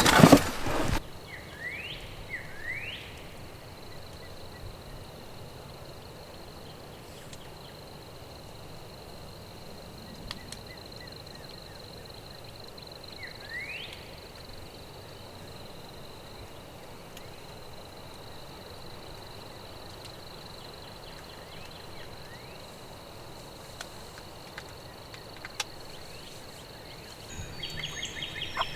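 Quiet rural outdoor ambience with a faint steady high-pitched tone. A few short rising bird chirps come two or three seconds in and again near the middle. It opens with a brief loud noise in the first second.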